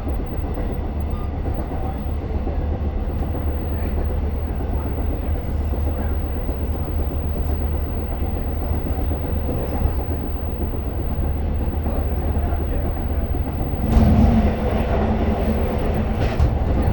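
Long Island Rail Road train running along the track, a steady rumble of wheels on rails. About fourteen seconds in it gets briefly louder, with a low hum and a sharp clatter, and another clatter follows near the end.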